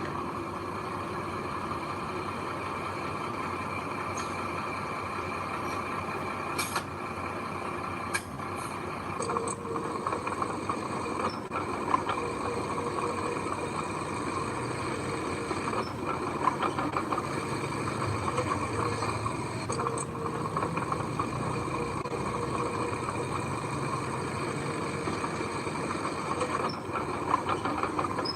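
Heavy diesel machinery running steadily, with a few sharp clanks.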